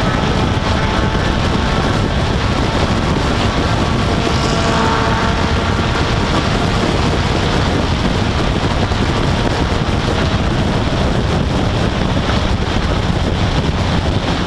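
An MG sports car's engine running steadily at speed on track, heard from the open cockpit with wind rushing over the microphone.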